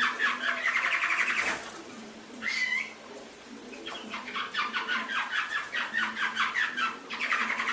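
Domestic canary singing: fast trilled phrases of rapidly repeated notes, in two long runs with a short call between them.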